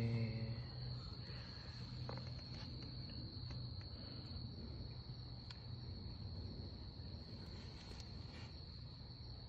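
Crickets trilling in one steady, unbroken high-pitched tone, over a low steady hum.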